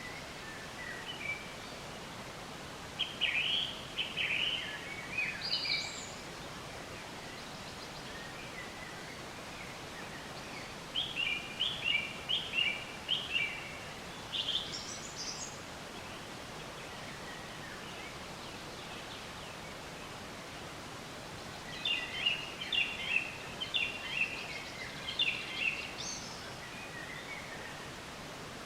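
Songbird singing in three phrases of quick chirps and warbles, high-pitched, over a steady outdoor hiss.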